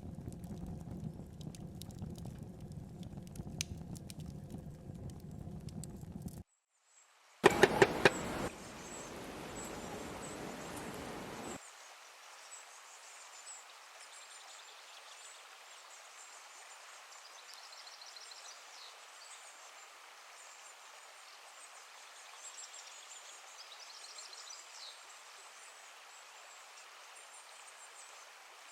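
Riverside nature ambience: a steady rush of river water with small birds or insects chirping over it. Before that comes a stretch of rougher, fuller noise with a few clicks, a brief dropout and then a short loud clatter about seven seconds in.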